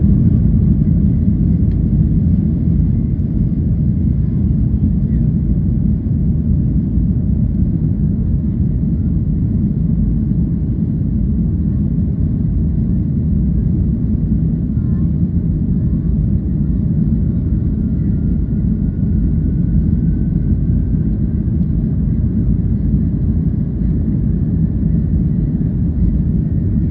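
Boeing 737 MAX's CFM LEAP-1B turbofan engines during departure, a loud, steady low rumble, with a faint thin tone rising slightly for a few seconds in the middle.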